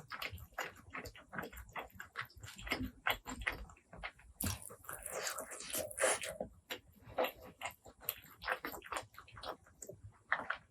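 Close-miked chewing and wet mouth sounds of a person eating, a quick run of short smacks and clicks, thicker for a moment near the middle.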